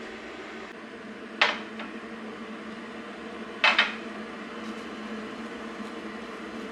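Dishes clinking: two sharp clinks a couple of seconds apart, the second a quick double clink, over a faint steady hum.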